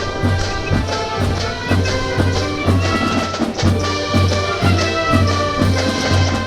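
Marching brass band playing a march, brass melody over a steady bass drum beat, starting abruptly at the beginning.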